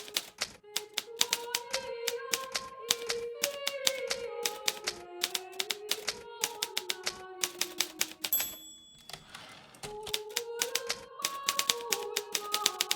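Hermes Baby portable typewriter keys striking in quick, uneven runs, with a short pause about eight seconds in, over background music playing a slow melody.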